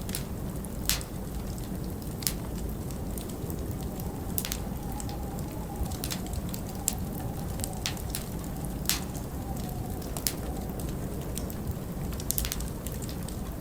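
Wood fire crackling, with sharp irregular pops every second or so, over a steady low rumble of winter wind. Through the middle a faint wavering whistle of wind rises and fades.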